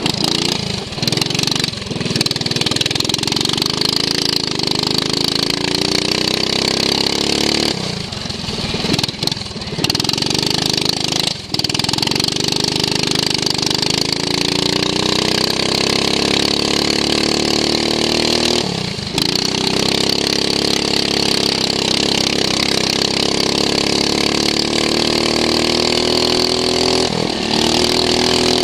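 Racing lawn mower's engine heard from onboard, running hard. Its pitch drops away briefly several times as the throttle comes off and climbs again each time it is reopened.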